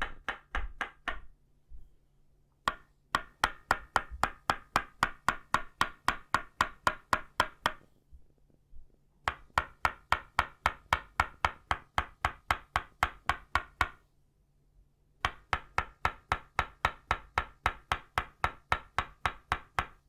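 Itauba-wood tok sen mallet striking its wooden peg in quick, even runs of about four knocks a second, each knock with a short woody ring. The runs stop for a second or two and then start again, giving four runs in all.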